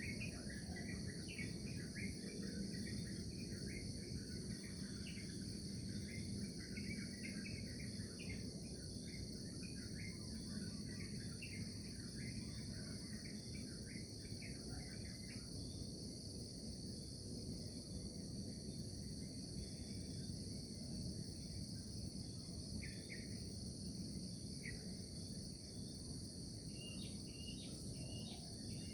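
Outdoor nature ambience: a steady, high-pitched insect chorus with many short bird chirps, busy through the first half, thinning out in the middle and picking up again near the end, over a low background rumble.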